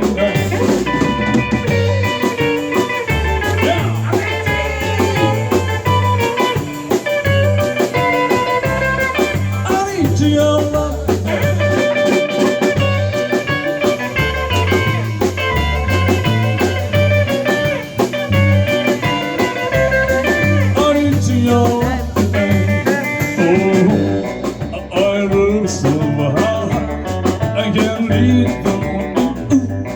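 Live band playing an instrumental break between verses: a lead guitar plays over bass and drums, in a bluesy style.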